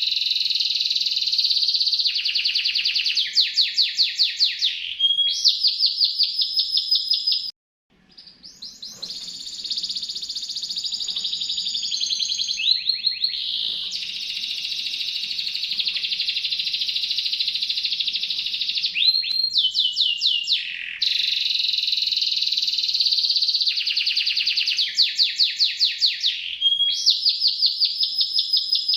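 Songbird singing continuously in high-pitched rolling trills of rapidly repeated notes, with a brief break about eight seconds in; the same phrases come round again later, as in a looped recording.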